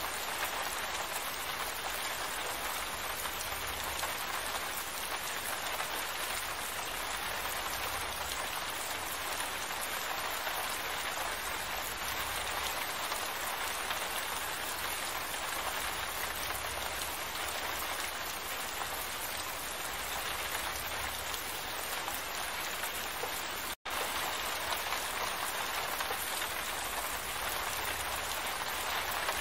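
Steady rain falling, an even dense hiss, with a faint low rumble coming and going underneath. The sound drops out for an instant about four-fifths of the way through, then resumes.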